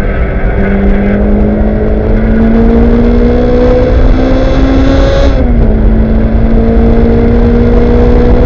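Lotus race car's four-cylinder engine heard from inside the cockpit under hard acceleration, its note climbing steadily before dropping sharply at a gear change about five seconds in, then climbing again. Wind and road noise run underneath.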